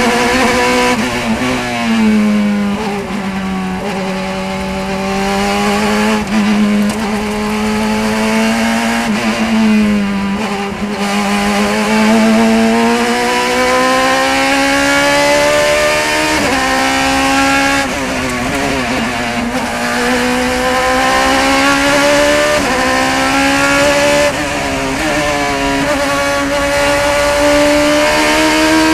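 Racing car engine heard from on board through part of a lap: the revs climb under acceleration, then drop sharply at gear changes and under braking for corners, several times over.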